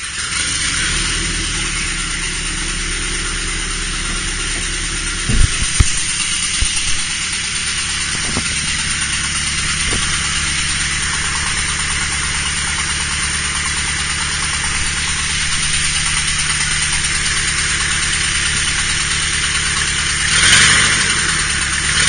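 Nissan SR20DET turbocharged 2.0-litre four-cylinder idling steadily, brought back to running after years out of the car. A few sharp knocks come about five to seven seconds in, and the sound briefly swells near the end.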